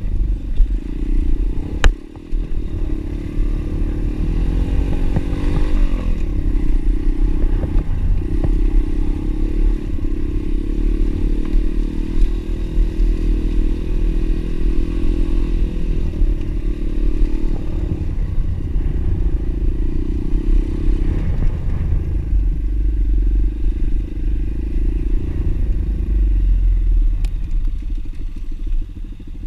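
Single-cylinder pit bike engine running under way, its revs rising and falling as it is ridden, with clatter and a low rumble from the rough track. There is a sharp knock about two seconds in.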